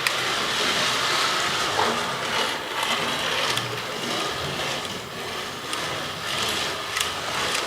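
Small electric motor of a model racing car whirring as it laps a tabletop track, with scattered light clicks and rattles.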